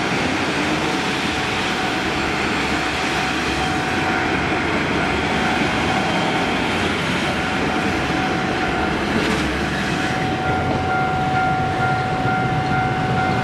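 A six-car passenger train running past over a level crossing, its wheels rumbling on the rails, while the crossing's warning bell rings steadily. Near the end the last car clears and the train noise thins, leaving the bell ringing.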